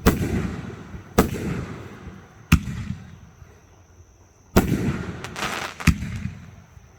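Fireworks going off: about five sharp booming reports one to two seconds apart, each trailing off in a rumbling echo, with a couple of smaller pops shortly before the last report.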